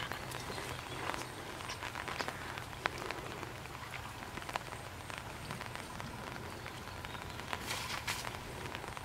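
Light rain pattering on open water, a steady hiss with scattered drip ticks. Near the end comes a short splashing rush as a fishing net goes down onto the water.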